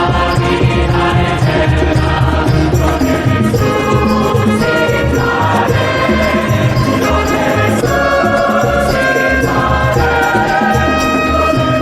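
Church music with choral singing, held chords in several voices.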